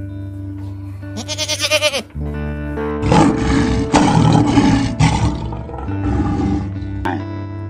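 A goat bleats once, a quavering call about a second in. Then a lion roars, a loud, rough sound lasting about two seconds, over steady background music.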